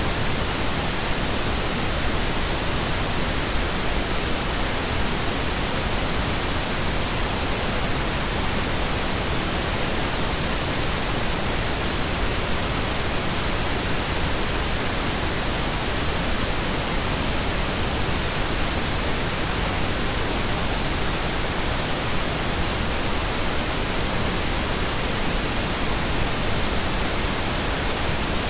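Steady pink noise: an even, unchanging hiss across the whole range, with no rhythm or events.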